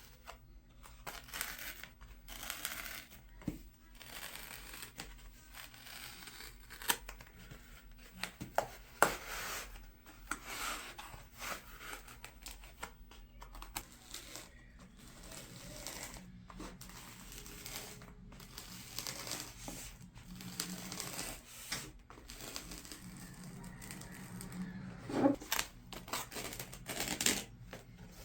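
Duct tape being handled: strips ripped off the roll and torn, with crinkling and rubbing as the tape is pressed and wrapped, in a string of short irregular rasps.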